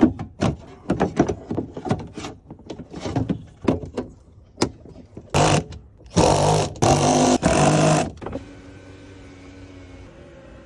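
A run of sharp clicks and knocks, then the Skoda Rapid's electric window motor runs in a short burst and then in three loud runs of about a second each, six to eight seconds in. A faint steady hum follows.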